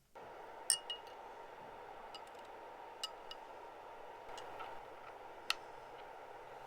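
Small metal parts, likely of a brass lighter, clinking against each other or a hard surface: a handful of light, sharp clinks with a short ring, the loudest about half a second in and again near the end. A steady hiss runs underneath, coming in just as the clip begins.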